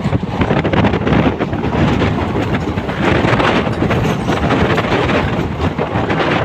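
A moving NMG automobile-carrier train of converted ICF coaches: steady rumble and rattle of wheels on the track, with wind buffeting the microphone.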